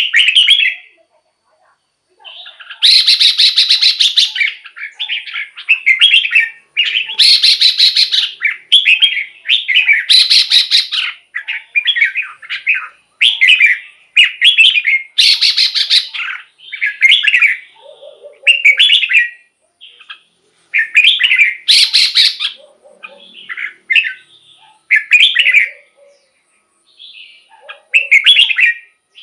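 Red-whiskered bulbul singing: a run of short whistled phrases one after another with brief gaps, some louder and harsher than the rest.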